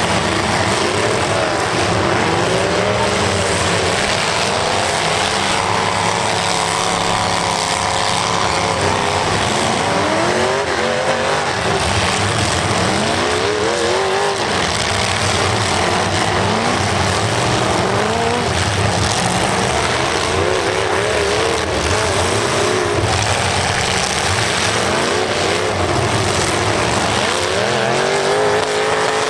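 Several demolition derby cars' engines running hard together, revving up and down over and over as the cars accelerate and back into each other.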